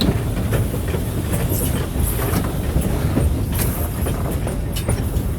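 Steam locomotive running, heard from inside its cab: a steady low rumble with rattling and scattered sharp metallic knocks.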